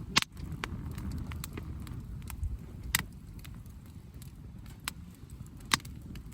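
Wood campfire crackling: sharp pops scattered throughout, three loud ones near the start, in the middle and near the end, over a low steady rumble.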